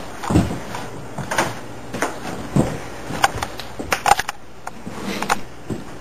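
A series of irregular knocks and clattering thuds, about one or two a second, with a quick pair of sharper knocks about four seconds in.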